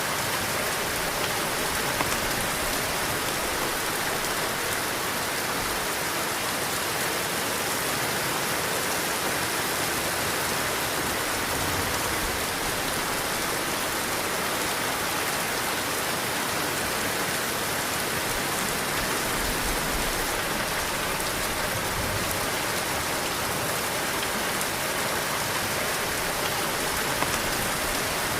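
Heavy rain pouring steadily onto surfaces, a dense even hiss without a break.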